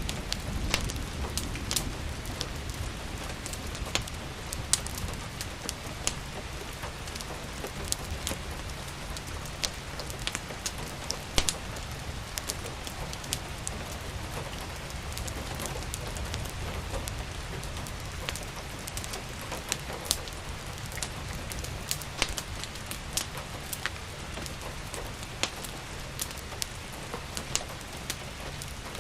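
Steady rain with a wood fire crackling, its sharp pops scattered irregularly over the patter, and a low rumble underneath that eases off about halfway through.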